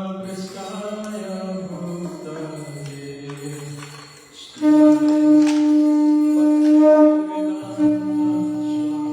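A voice chanting long, drawn-out mantra syllables that slide slowly down in pitch. About four and a half seconds in, a conch shell is blown in a loud, steady note that holds on: the call that opens the arati ceremony.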